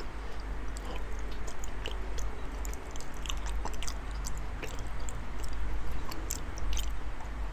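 A man chewing a large mouthful of raw salmon close to the microphone: irregular wet smacking and clicking of the mouth, over a steady low hum.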